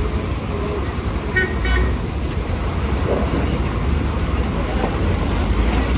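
Heavy truck engine running under load, a steady low rumble, with two short high-pitched chirps about a second and a half in.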